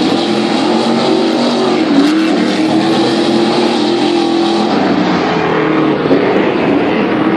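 Stadium racing trucks' engines running hard on track, the engine pitch repeatedly rising and dipping.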